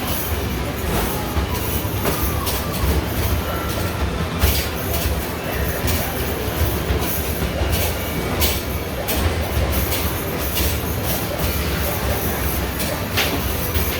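Basketball arcade machine in play: basketballs knocking against the backboard and hoop at an irregular pace, roughly one or two a second, over a continuous low rumble of balls rolling back down the return ramp.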